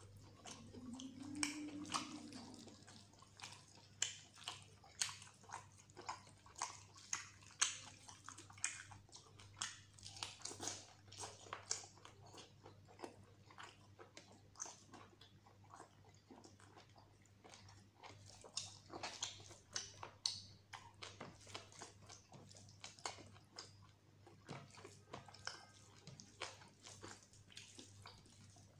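Close-up eating sounds of mutton curry and rice: irregular wet chewing, biting and lip-smacking clicks. A brief low hum rises and falls about a second in.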